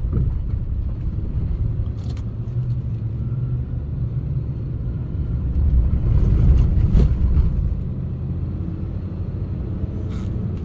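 Car driving on a wet road, a steady low road and engine rumble that swells louder for a second or two around the middle, with a few brief sharp knocks.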